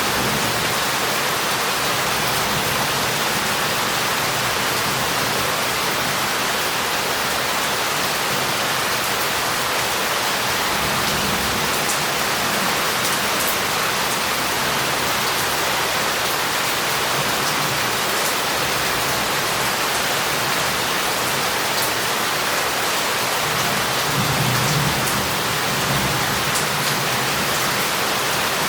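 Heavy rain falling steadily on a city street, water pouring off roof tiles and running down the pavement in an even hiss. Low rumbles of distant thunder swell twice underneath, the second one louder, near the end.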